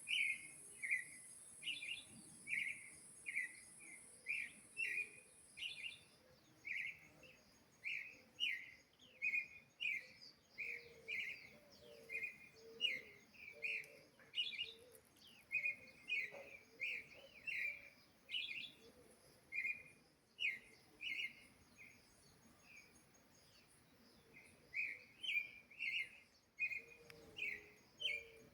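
A sabiá thrush singing: a long string of short, clear whistled notes, about two a second, with a brief lull near the end. A steady high hiss runs underneath for the first few seconds, then stops.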